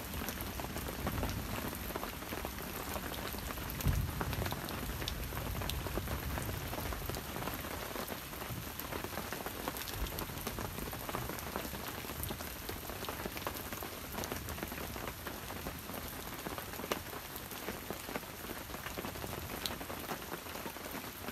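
Steady rain falling through forest, with many single drops ticking close by. A brief low rumble swells about four seconds in.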